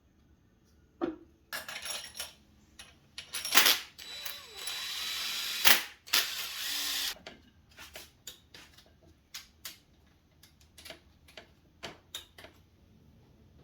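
Tools working on metal engine parts: a string of sharp clicks and clanks, with a steady hiss lasting a couple of seconds near the middle.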